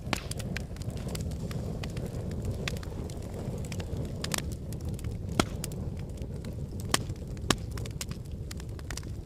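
Wood fire burning in a fireplace: a steady low rumble of flames with constant crackling and a few louder pops from the burning logs.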